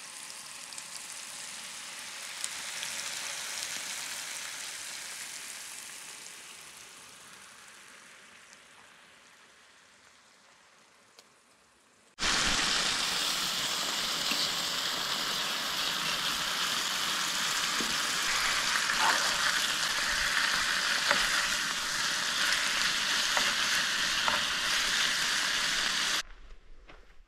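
Bacon and sausage links sizzling in frying pans on a camp stove. The sizzle is moderate and fades away over the first dozen seconds, then comes in suddenly loud and close, with a few light clicks of tongs against the pans. It cuts off abruptly near the end.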